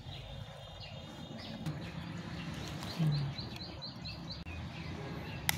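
Birds chirping over steady outdoor background noise. A little past halfway there is a quick run of about eight short, evenly spaced high chirps. A sharp click comes just before the end.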